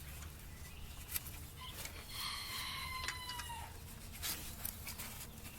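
A rooster crowing once: one long call of a little under two seconds, dropping in pitch at the end. Light clicks are scattered around it.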